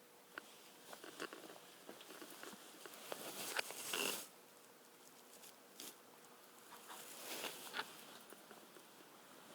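Washing-machine stonewash tumbler: stones and knife parts rattling and clicking inside the turning drum. The clatter swells twice, about 3 to 4 seconds apart, as the load tumbles over.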